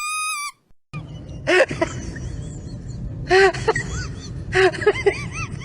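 A high squeal that ends about half a second in. Then, over a steady low hum, a dog gives short rising-and-falling whimpering yelps in three bursts.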